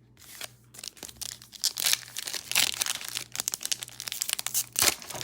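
A trading-card pack wrapper crinkling and being torn open. It is a dense run of crackles that gets louder after the first second or so.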